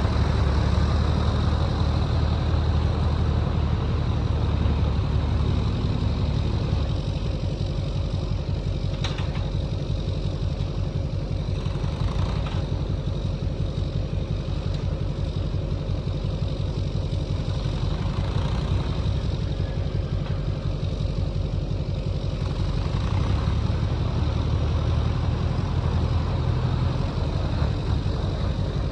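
Engine running steadily, heavier and louder for the first several seconds and again near the end, easing off in between. Two brief clicks in the middle.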